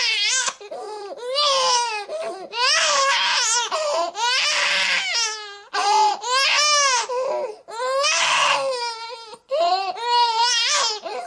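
Infant crying: a string of loud, high-pitched wailing cries, each lasting about a second, with short breaths between them.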